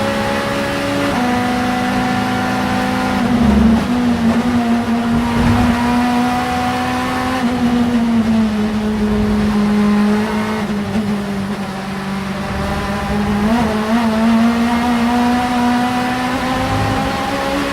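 Vauxhall Vectra Supertouring race car's 2-litre engine running hard at high, fairly steady revs. Its pitch drifts up and down, with brief changes about 1, 3.5, 7.5 and 13.5 seconds in.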